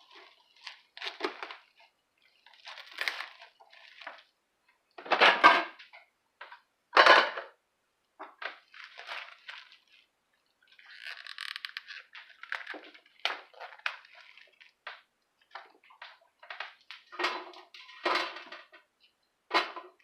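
Knife cutting up a head of cauliflower: irregular crunching and cracking as the blade breaks through the stalks and florets, with two louder crunches about five and seven seconds in.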